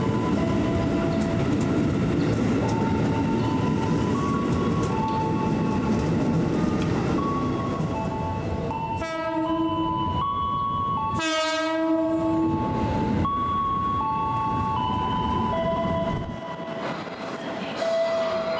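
An electric commuter train runs past along the platform with a steady rumble of wheels and motors. It is followed by an approaching commuter train sounding its horn twice, a short blast about nine seconds in and a longer one about two seconds later. Background music with a held-note melody plays throughout.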